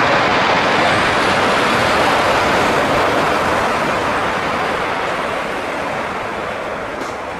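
Jet roar from a landing Airbus A320-232 airliner, steady at first and slowly fading away.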